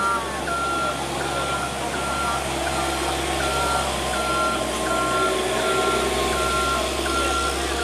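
A truck's reversing alarm beeping steadily at one pitch, about one and a half beeps a second, over the low steady drone of an engine running. A steady whine joins about three seconds in.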